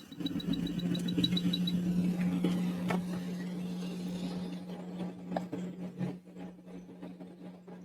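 A steady low hum from workbench equipment. A rapid high beeping runs through the first second or two, and a few light clicks follow.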